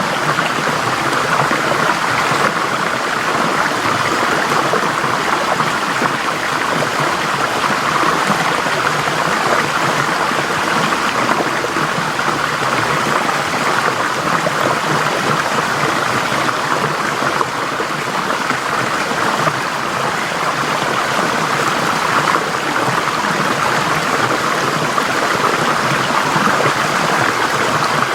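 A forest stream flowing over rocks: steady rushing and babbling water.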